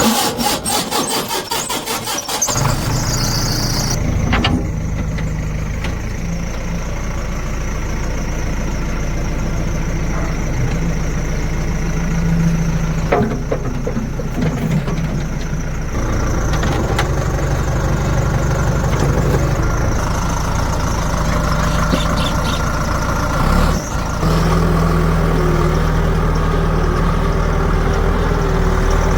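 Heavy diesel engines of a backhoe loader and farm tractors running and working under load. The sound changes abruptly a few times, with a fast, even clatter in the first couple of seconds.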